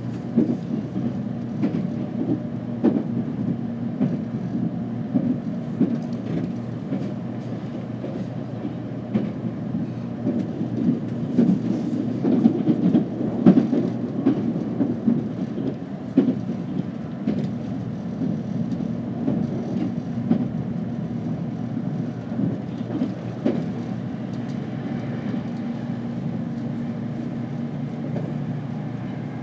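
Running noise of a JR Kyushu 787 series electric limited express heard from inside the passenger car: a steady low rumble of wheels on track with irregular clacks and knocks, swelling a little in the middle.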